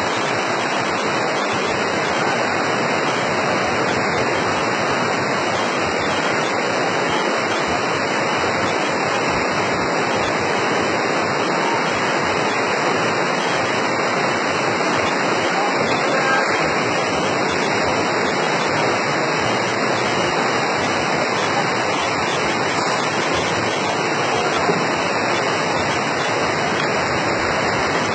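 Very heavy rain pouring down in a steady, dense downpour, with no let-up.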